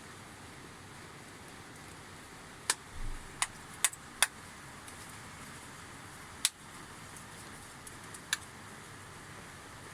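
Handwork on a sheep shearing machine motor being assembled: about six sharp clicks and taps of tools and parts, in two clusters, with a short low thump about three seconds in, over a steady background hiss.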